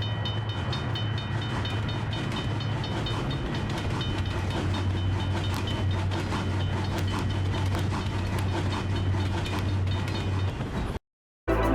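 Passenger express train hauled by a ZCU diesel locomotive passing at speed, its wheels clicking over rail joints in a rapid, even rhythm over a steady low hum. The sound cuts off suddenly near the end.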